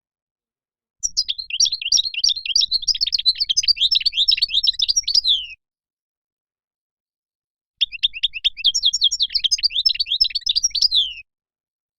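European goldfinch singing: two long phrases of fast, high twittering notes, the first starting about a second in and the second after a silent pause of about two seconds, with dead silence between and after them.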